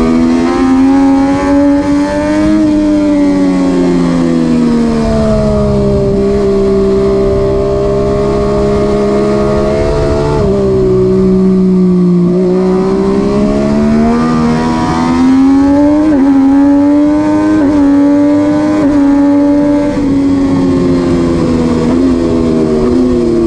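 MV Agusta F3 675's three-cylinder engine at full race pace. The revs climb hard, jump abruptly at gear changes, and drop away under braking for corners several times over, with wind rush underneath.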